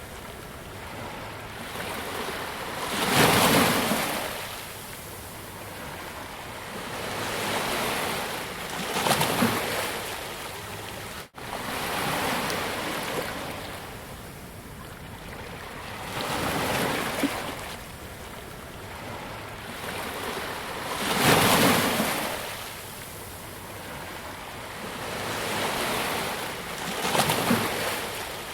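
Ocean waves breaking on a beach: a steady wash of surf with a louder surge roughly every six seconds as each wave comes in. The sound cuts out for a split second about eleven seconds in.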